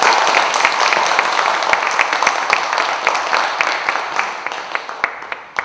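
An audience applauding after a pansori song: dense clapping that dies away over the last second or so.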